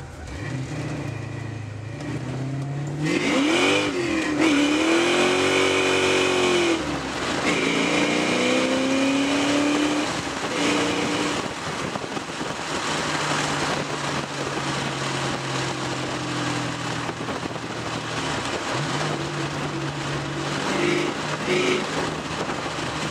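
Ported 308 cubic inch V8 in a 1995 Mustang Cobra, with a Steeda cam and Bassani exhaust, accelerating hard. About three seconds in the revs climb and fall back through upshifts. The second half settles into steadier running at cruise.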